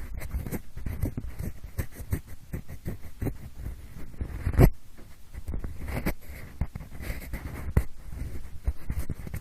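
Pencil scratching, rubbing and tapping close against the microphone to imitate ear cleaning, heard in both ears at once. It is an uneven run of scrapes and small clicks, with one louder knock about four and a half seconds in.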